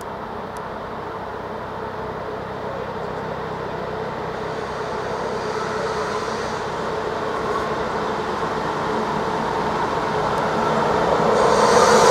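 EuroCity passenger train approaching, its rolling noise growing steadily louder, with a brighter hissing rise near the end as it nears.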